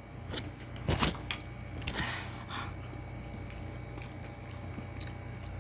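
Close-up eating sounds of people chewing and smacking as they eat with their hands, with a few short clicks and smacks in the first two seconds, the loudest about a second in, then only a steady low hum.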